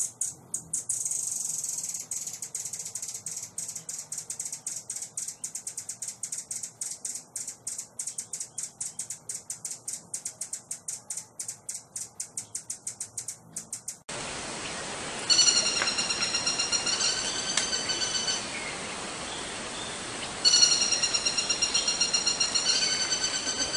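Songbird song from two different recordings: first a long, fast, high-pitched rattling trill, then, after an abrupt cut, two phrases of rapidly repeated clear notes, each phrase about three seconds long.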